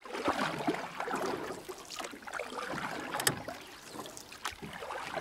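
Water sloshing and splashing in a bubbling pool as people move about in it, with one sharper splash a little past halfway.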